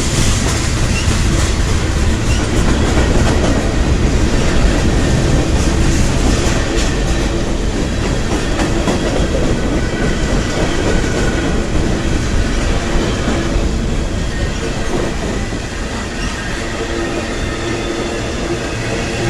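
CSX mixed freight train rolling past, its wheels clattering steadily over the rails.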